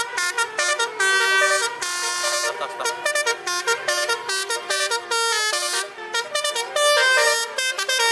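Basuri melodic truck horn playing a tune: a quick string of loud horn notes stepping up and down in pitch, broken by short gaps.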